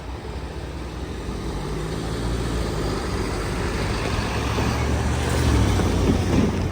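Low rumble of a heavy vehicle passing, with a deep engine drone, growing steadily louder over several seconds and easing off near the end.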